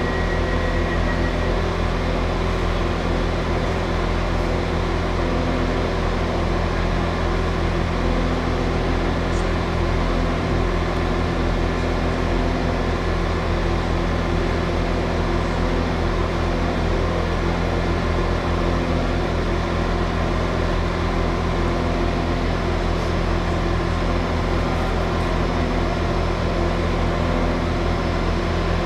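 Steady hum of a train standing at idle: a low, even drone with several steady tones held throughout. A higher steady tone stops about a second and a half in.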